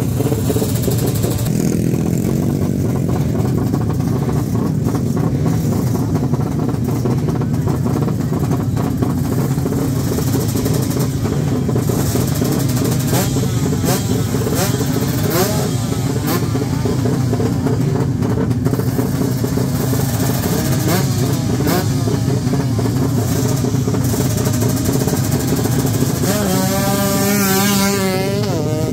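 Racing motorcycle engines revving hard at a drag strip. Near the end, one engine's pitch climbs as a bike launches.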